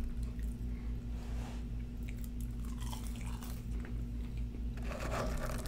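Close-miked chewing of sauce-dipped McDonald's French fries: soft, wet mouth sounds and bites, over a steady low hum.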